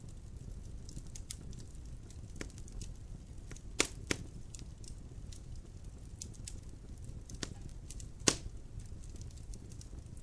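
Wood fire crackling in a fireplace: a steady low rumble of flames with scattered small clicks, and sharp louder pops twice in quick succession about four seconds in and once more a little after eight seconds.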